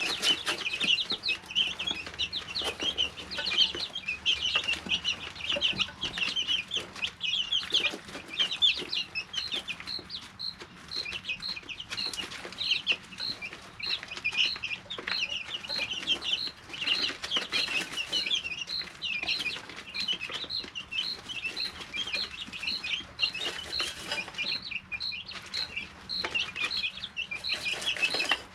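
Three-week-old chicks peeping and chirping in a brooder, many short high calls overlapping without a break. Through the second half one chick peeps over and over at one pitch, about two or three times a second, over scattered soft knocks.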